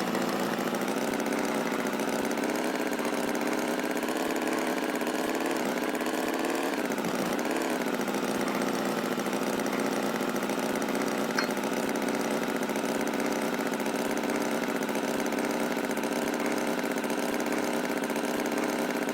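Tractor engine running steadily, its pitch dipping briefly and recovering about seven seconds in.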